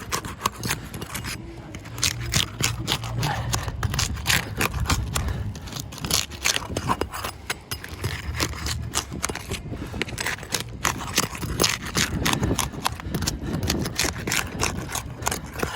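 Rapid scraping and clicking of a pry bar working under asphalt roof shingles, breaking them loose to get the damaged shingle out, over a low steady rumble.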